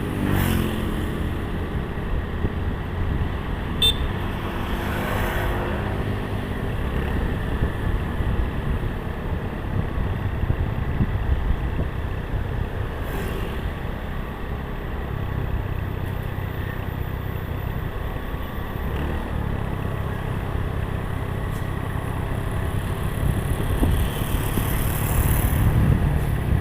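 Road traffic with heavy vehicles passing: a steady low engine and tyre rumble, with a pitched engine note near the start.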